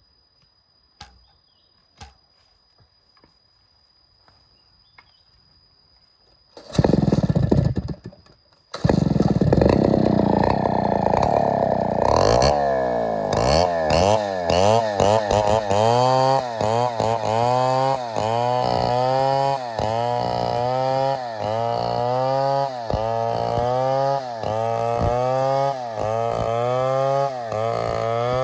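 Two-stroke chainsaw starting: a short burst that dies after about two seconds, then it catches and runs. It is revved up and down in pitch over and over, about once a second.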